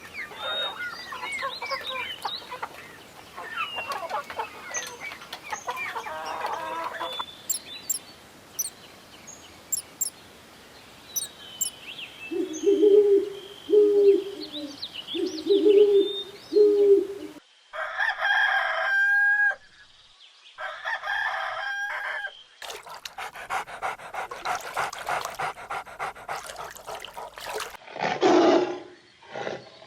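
Domestic chickens calling: hens clucking and a rooster crowing, in a series of separate clips with short cuts between them.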